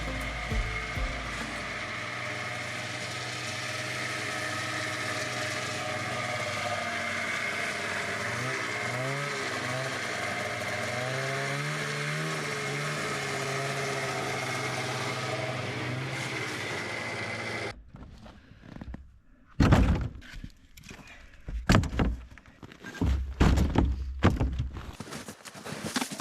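Husqvarna chainsaw running steadily, its pitch wavering for a few seconds in the middle, then cutting off suddenly about eighteen seconds in. Then a series of loud knocks and thuds of wood.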